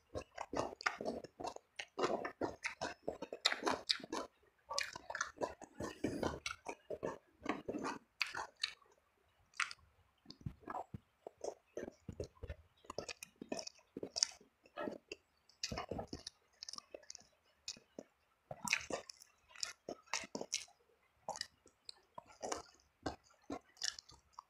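Close-up chewing and mouth sounds of someone eating rice with fried eel and tempeh: irregular wet smacks and crunches, busiest in the first half and sparser in the middle.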